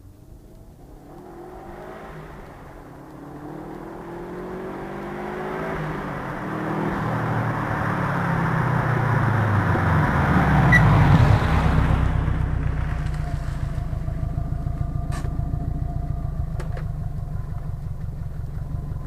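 Subaru Forester S-Turbo's EJ205 turbocharged 2.0-litre flat-four accelerating, its pitch rising repeatedly through the gears and growing louder, loudest about eleven seconds in. It then runs at a steady pitch, with a few sharp clicks near the end.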